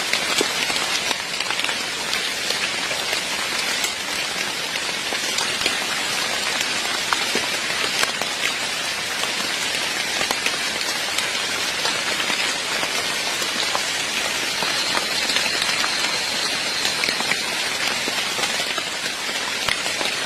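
Heavy rain falling steadily, a dense hiss with many individual drops tapping through it.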